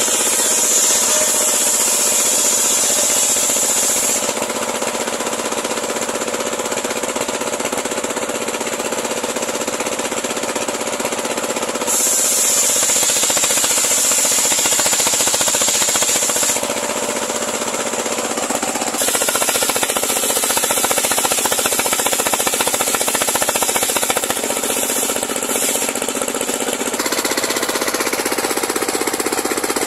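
Homemade engine-driven circular sawmill running steadily with a rattling drone, its blade ripping through a large pule log. A brighter, hissing cutting sound comes in three times, for several seconds each, as the blade works through the wood.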